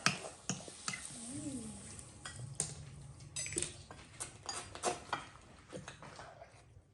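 Forks and spoons clinking and scraping against plates and bowls while eating, in irregular short clicks.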